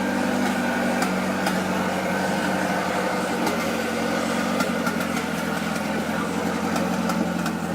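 Turbocharged Honda B20V four-cylinder engine in an Integra idling steadily.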